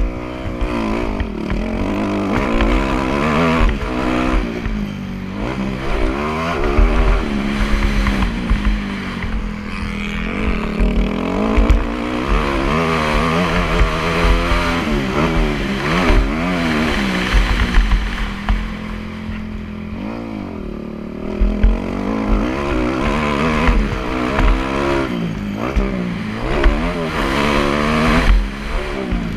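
Motocross bike engine being ridden hard, its pitch repeatedly climbing and dropping as the throttle is opened and closed, over a heavy low rumble.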